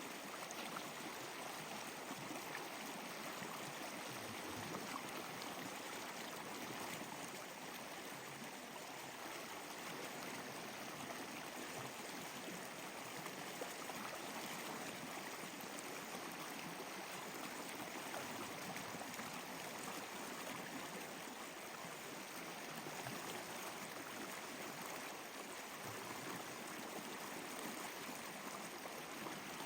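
Water flowing steadily like a stream, an even rushing and trickling.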